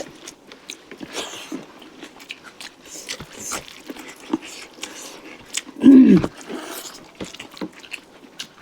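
Close-up eating sounds of chicken curry: wet chewing, lip smacks and small sharp clicks of biting. About six seconds in, a short, loud pitched sound that dips in pitch.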